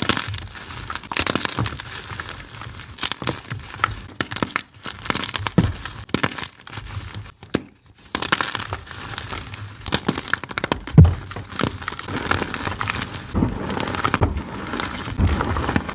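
Blocks of gym chalk being crushed and crumbled, a dense crunching and crackling of small breaks, with one sharp crack about eleven seconds in.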